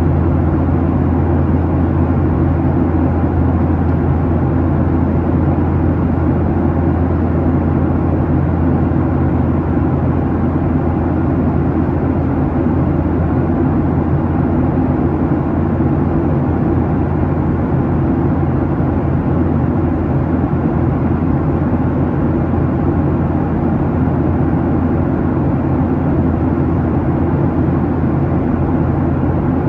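Steady cabin drone of a Boeing 737-800 late in its climb: its CFM56-7B jet engines and the airflow past the fuselage, heard from inside the cabin as a deep even hum under a rush of air.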